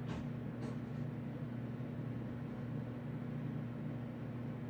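A steady low hum runs throughout, with two brief sharp chirp-like sounds about half a second apart near the start.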